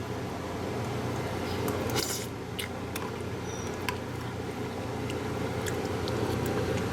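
A person chewing a mouthful of food, with a few light clicks and a steady hum underneath.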